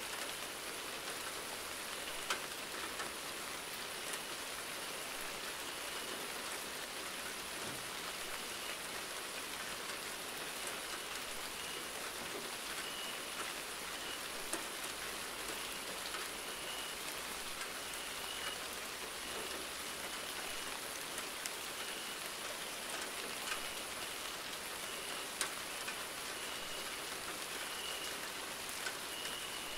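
Steady rain falling on a surface, with occasional sharper single drops landing close by. A faint high tone pulses in short repeats in the background.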